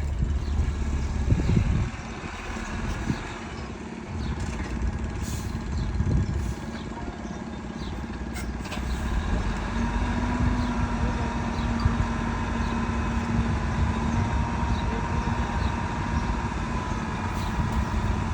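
Diesel engines of heavy earthmoving machinery running steadily with a low rumble and a few scattered knocks. A steady higher note comes in about halfway through and holds.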